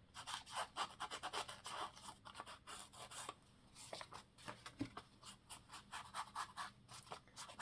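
Faint, irregular scratching and crinkling of paper and card being handled at a craft table, many small scrapes and ticks in quick succession.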